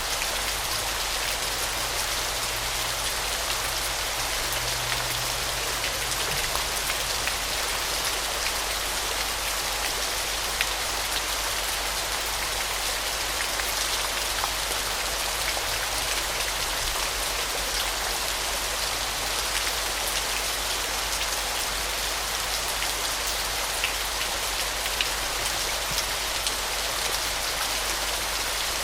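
Waterfall: a steady, unbroken hiss of falling water spattering on rock and pool, with scattered sharper splashes.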